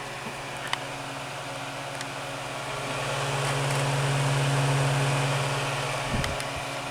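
Galaxy 6-inch table fan, model 3146, running on high: a steady motor hum with a strong rush of air, swelling louder in the middle and easing back.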